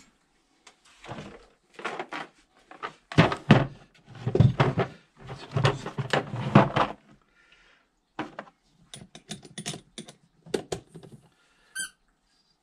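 Hand tools clattering and knocking as they are handled, loudest in the first half, then a run of quick clicks like a socket ratchet being worked, with a short squeak near the end.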